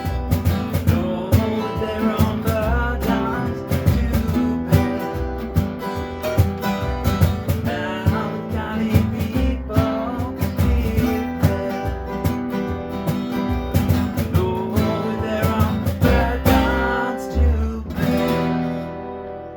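Country-style song played on strummed acoustic guitar with a steady beat, winding down to a final chord that rings out near the end.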